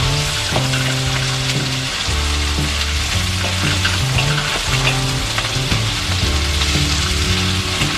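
Sliced onions sizzling in a hot wok, stirred with a wooden spatula that scrapes the pan now and then. Background music with a bass line plays along.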